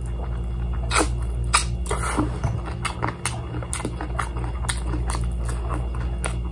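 Mouth sounds of someone chewing crispy fried chicken eaten by hand: scattered clicks and smacks, over a steady low hum.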